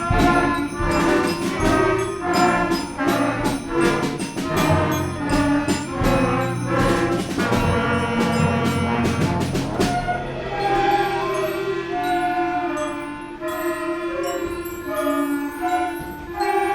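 School symphonic concert band playing, brass and percussion together: quick, dense rhythmic strikes over held chords, thinning about ten seconds in to sustained low notes with short higher notes above.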